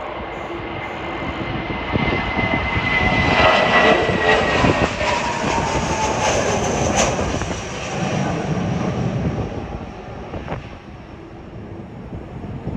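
Jet airliner's engines at takeoff power as it departs past the microphone. The sound swells to its loudest around the middle, and its whine slides down in pitch, then it eases off near the end.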